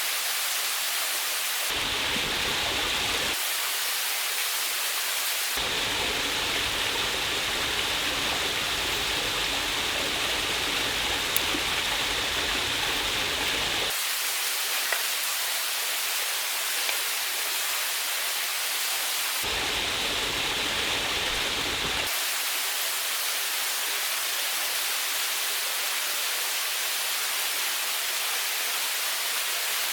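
Waterfall water rushing steadily, with its tone changing abruptly several times.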